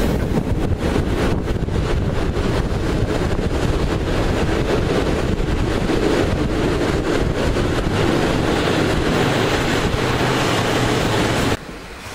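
Passenger train running at speed, heard at the carriage window with the rush of wind buffeting the microphone. The loud, steady rushing noise drops off abruptly near the end.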